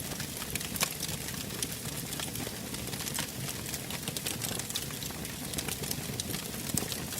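Wood fire in a fireplace burning with a steady rushing hiss and frequent sharp crackles and pops. The sharpest pop comes about a second in.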